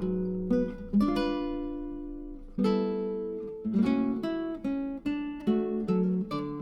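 Background music: acoustic guitar strumming and picking chords, some of them left ringing.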